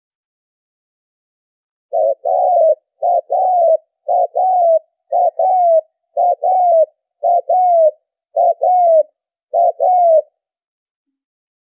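Spotted dove (cu gáy) cooing: eight repeated two-part coos, each a short note and then a longer note that rises and falls, about one a second, starting about two seconds in and stopping near the end. This is the male's provoking lure call, played to draw doves into traps.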